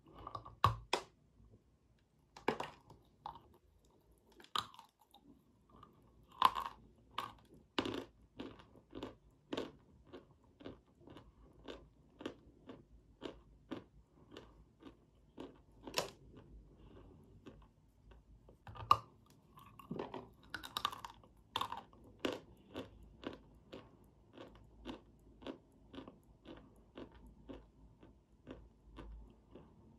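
Close-miked biting and chewing of a hard, crunchy white lump. A few loud crunching bites come near the start and again about two-thirds through, with steady crunching chews at about two a second in between.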